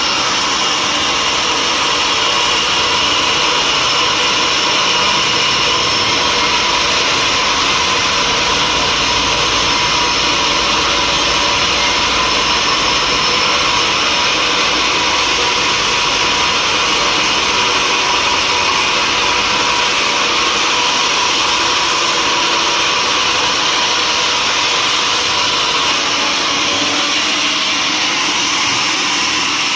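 Sawmill saw running steadily: a continuous loud whine and rushing noise with no breaks.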